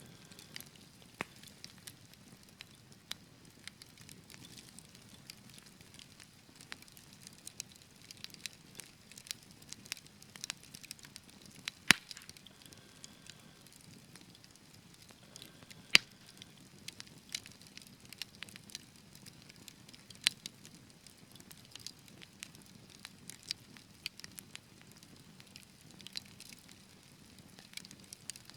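Wood fire crackling, with irregular sharp pops over a soft steady hiss of burning; two loud pops stand out about twelve and sixteen seconds in.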